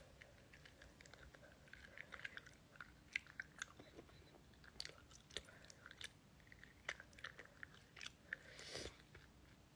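Faint close-up chewing of wax candy: soft, irregular wet clicks and smacks of the mouth working the chewy wax.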